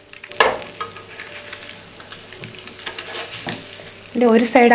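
Egg-soaked bread frying in butter in a non-stick pan on a low flame: a steady sizzle with fine crackling that grows louder about half a second in.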